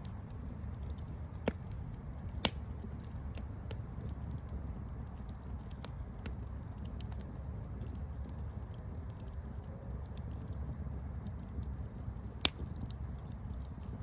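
Campfire burning: a low steady rumble of flames under scattered small crackles, with three sharper pops, one about a second and a half in, the loudest about two and a half seconds in, and one near the end.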